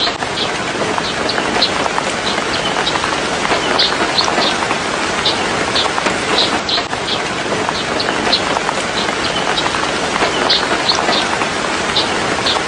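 Steady rain falling, an even hiss, with short high-pitched chirps of birds recurring at irregular intervals, one to three a second.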